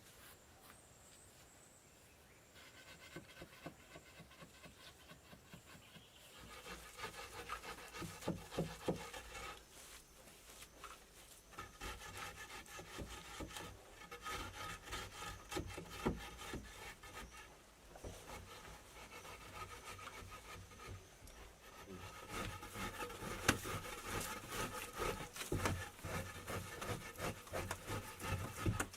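Wood being worked by hand with repeated strokes, beginning a few seconds in and growing louder and busier about six seconds in.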